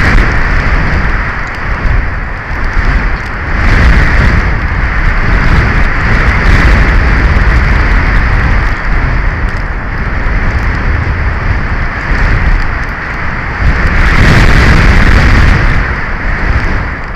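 Strong wind buffeting an outdoor nest-camera microphone: a loud, rumbling rush with no pitch, swelling in gusts about four seconds in and again near the end, then easing off.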